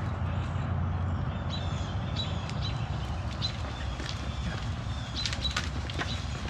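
Small birds chirping in short, scattered high calls over a steady low rumble, with footsteps on concrete.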